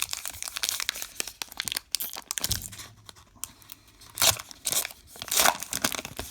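Foil baseball card pack wrapper crinkling and tearing under handling, in irregular crackly bursts, loudest about four and five and a half seconds in.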